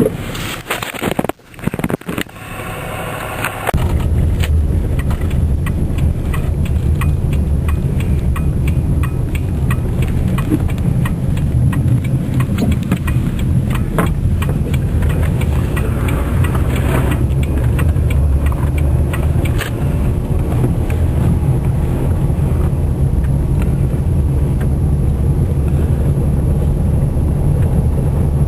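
Car driving, heard from inside the cabin: a steady low rumble of engine and road noise with many small ticks and rattles throughout. The first few seconds are uneven and broken up before the rumble settles in about four seconds in.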